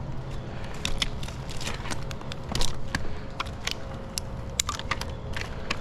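Irregular sharp clicks, crackles and scrapes from a tree climber shifting in a dead oak: boots and climbing gear knocking and rubbing on the bark.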